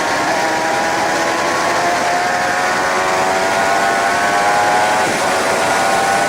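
Suzuki GSX-R 750 K7's inline-four engine running under way, its pitch rising slowly and then dipping briefly about five seconds in before holding steady, under heavy wind rush on the onboard camera.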